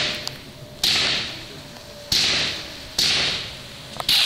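Fireworks going off in quick succession: a sharp crack about once a second, each followed by a hiss that fades away.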